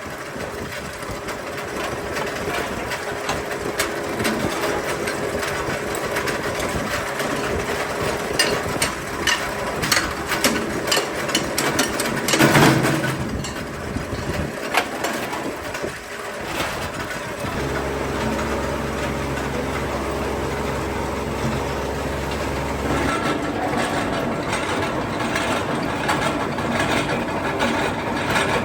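Metalworking workshop machinery running: steady mechanical noise with scattered sharp clicks and knocks, and one louder burst about twelve seconds in. A steady low motor hum starts about halfway through and stops about five seconds later.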